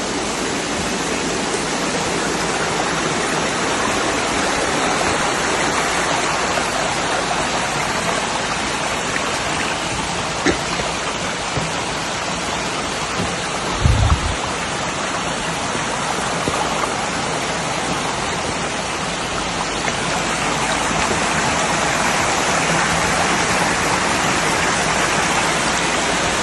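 Steady rushing of fast-flowing water in a stream, with a brief low thump about halfway through.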